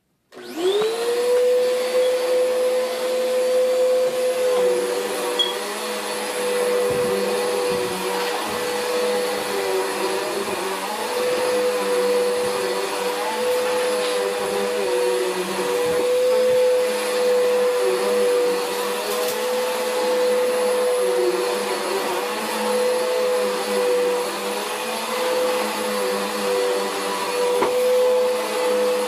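Vacuum cleaner switched on, its motor spinning up to a steady whine within about a second, then running steadily with a slightly wavering lower hum.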